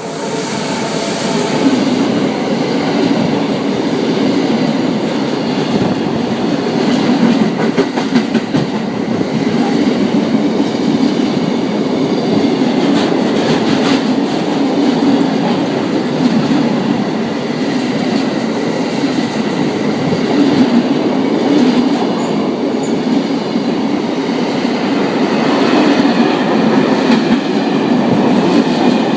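A train passing through a station on rails, its wheels clattering over the track. The noise builds quickly right at the start and then stays loud and steady as the carriages go by, with scattered clicks from the wheels.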